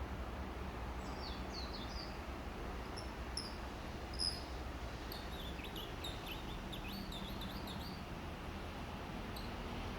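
Small wild birds chirping in short, high twittering notes, some sliding downward, in scattered bursts with one louder note about four seconds in, over a steady low background hum; the birds are answering a handmade bird call.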